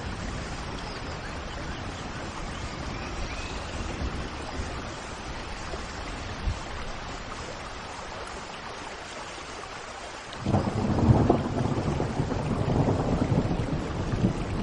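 Steady rain falling, with a loud rumble of thunder that breaks in suddenly about ten seconds in and keeps rolling.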